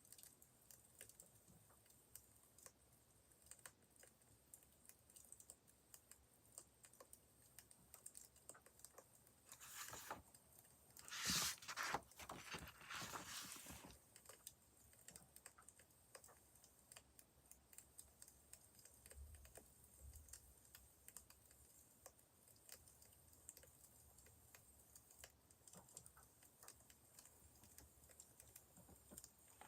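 Wood fire crackling faintly, with small scattered pops and ticks. About a third of the way in comes a louder rustle lasting a few seconds.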